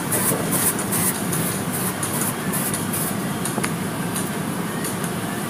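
Car wash equipment running: a steady rumbling noise, with irregular hissing bursts of water spray that thin out after the first few seconds.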